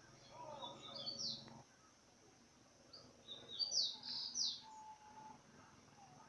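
A small bird chirping in two quick bursts of short, high notes, the first about a second in and the second, louder one about three to four and a half seconds in. A faint low hum cuts off about a second and a half in.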